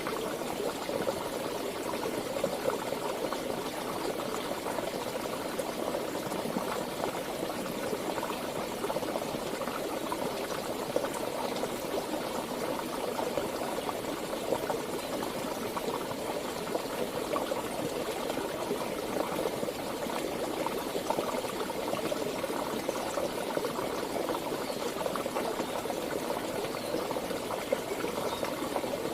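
Flowing stream water running over rocks, a steady babbling rush without pauses.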